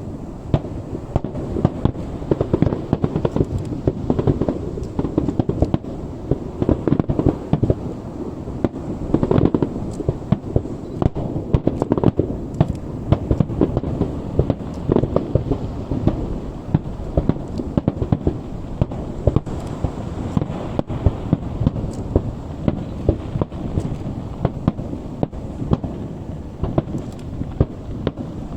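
Aerial fireworks going off in a dense, unbroken barrage of bangs, several bursts a second.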